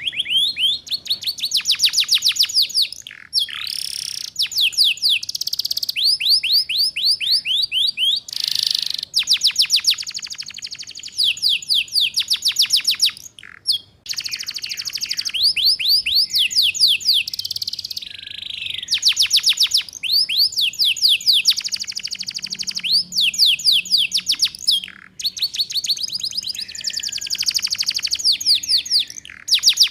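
Domestic canary singing in the 'ngeriwik' style: fast trills of rapidly repeated downward-sweeping notes, in phrases of one to three seconds with brief pauses between them. This is a master song used to teach young canaries to sing.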